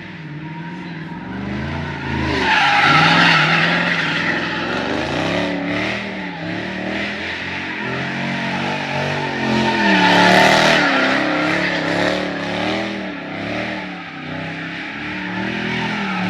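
A drifting car's engine revving up and down while its tyres squeal and skid, loudest about three seconds in and again about ten seconds in.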